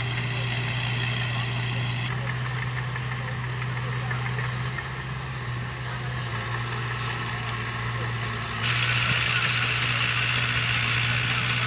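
Heavy diesel earthmoving machine engine running steadily with a low hum, the higher noise shifting abruptly about two seconds in and again near the end.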